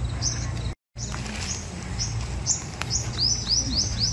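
Small birds chirping: short, high calls that sweep downward, coming more quickly in a run of about five near the end, over a steady low hum. The sound drops out completely for a moment about a second in.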